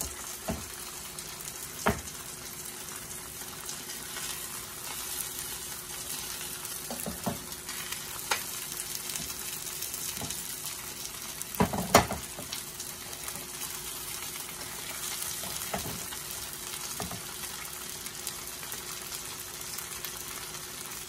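Bánh xèo crepes sizzling in oil in two frying pans, a steady hiss. A few sharp knocks of a utensil against the pans come as the crepes are folded; the loudest is about twelve seconds in.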